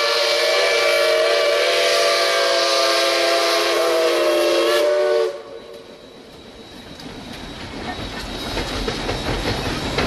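Diesel freight locomotive's multi-chime air horn sounding a steady chord, cutting off about five seconds in. The rumble of the approaching train then grows louder.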